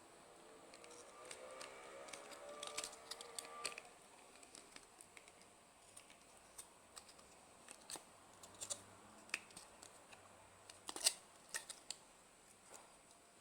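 Scattered light clicks and taps of small parts being handled, the loudest about eleven seconds in. A faint whine rises in pitch during the first few seconds.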